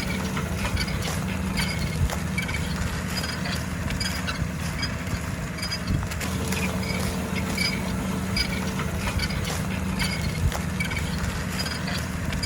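Fendt tractor engine running steadily while ploughing, a constant low drone with faint clicks and rattles over it.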